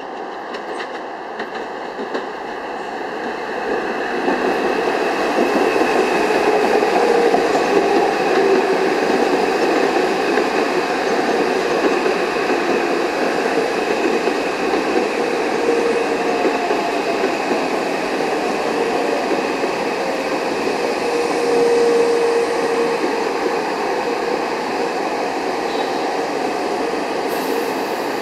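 Metro-North M8 electric multiple-unit train pulling into the station. It grows louder over the first few seconds as it approaches, then gives a steady rush and rattle of steel wheels on rail as the cars run past, with a thin high whine running through it.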